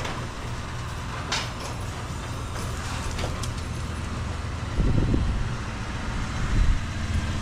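Steady low hum of an engine running, with a few light clicks and a brief louder low rumble about five seconds in.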